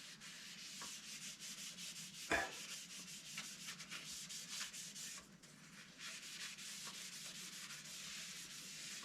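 Faint steady rubbing as wood stain is wiped onto the teak back of a guitar body, with one short louder sound about two and a half seconds in.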